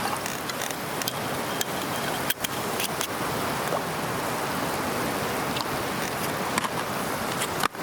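Food sizzling in a hot cast-iron skillet over a wood fire: a steady hiss with scattered sharp pops and crackles.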